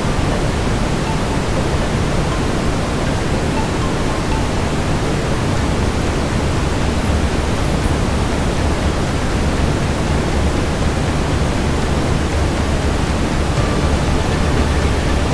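Steady brown noise: an even, deep rumbling hiss, heaviest in the bass, with no changes.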